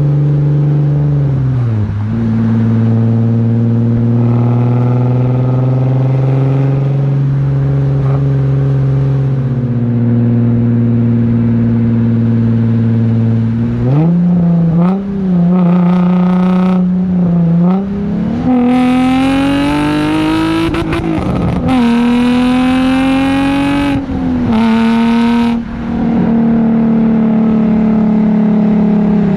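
Nissan 350Z's 3.5-litre V6 through test pipes, an H-pipe and a cutback exhaust while driving. It cruises at a steady pitch for the first half, then makes several hard pulls with the pitch climbing and dropping sharply at the gear changes, sounding raspy at high revs, before settling back to a steady cruise near the end.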